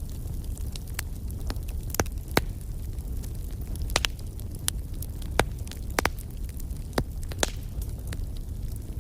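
Campfire burning: a steady low rumble of flames with irregular sharp crackles and pops from the burning wood, a dozen or so scattered through, a couple standing out louder.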